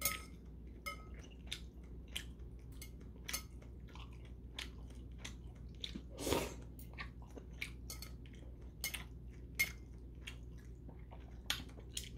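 A person chewing noodles with whelk and shiitake mushrooms close to the microphone, giving short, sharp wet mouth clicks several times a second. There is one longer, louder noodle slurp about six seconds in.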